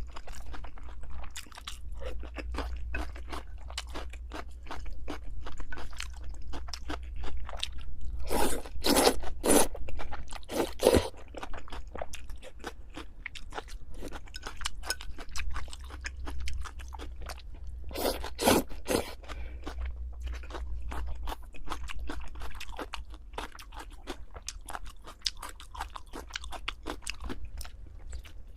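Close-miked mukbang eating: steady chewing with crisp crunching and wet mouth clicks, with a few louder bursts of crunching about a third of the way in and again later on.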